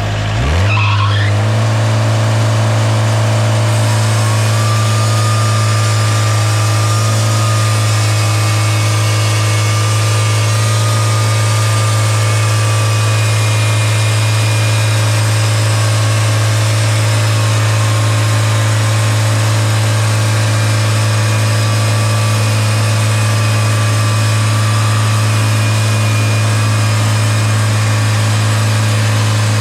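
Portable band sawmill's gas engine revving up in the first second, then running steadily at high speed. A thin, high whine joins it about four seconds in.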